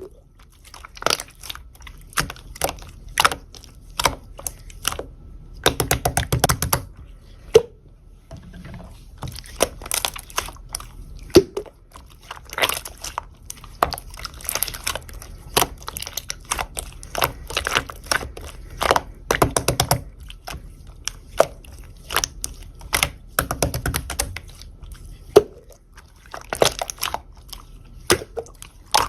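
Clear slime being squished and pressed by hand, giving irregular sticky clicks and small pops, with a few longer squelching stretches.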